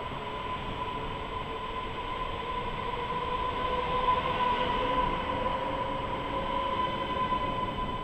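Electric passenger train pulling out of an underground station platform: steady running noise with a high whine and a second, lower tone that rises slightly. It grows loudest about halfway through and then eases off as the train draws away.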